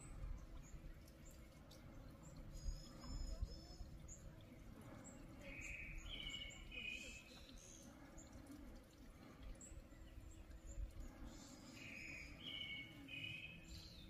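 A songbird singing short phrases of clear doubled notes, one phrase about halfway through and another near the end, with higher chirps a little earlier. A low wind rumble runs underneath, all faint.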